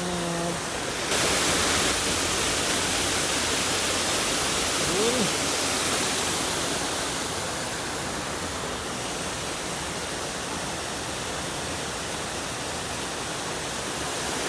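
Running water of a small stream or drain rushing steadily after rain, getting louder and brighter about a second in. A single short rising-and-falling call sounds briefly about five seconds in.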